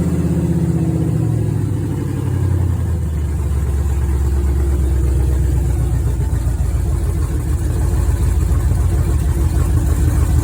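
Burnout truck's engine, freshly fitted with swapped cylinder heads, running just after starting: its revs drop over the first couple of seconds as it settles, then it idles loudly and steadily.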